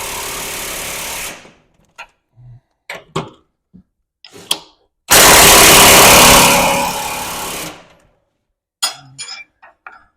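Impact wrench hammering on a bolt in two runs: one fading out about a second in, then a second run starting abruptly about five seconds in and fading out about three seconds later, with a few light knocks of tool and parts between.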